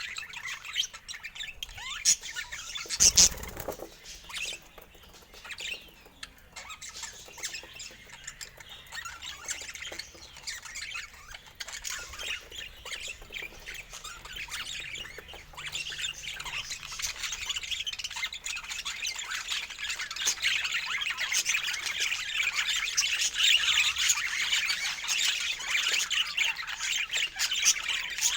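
Many birds chattering and squawking at once, a dense mass of high chirps that grows louder and busier about halfway through. A brief loud burst of noise, such as wings or rustling, comes about three seconds in.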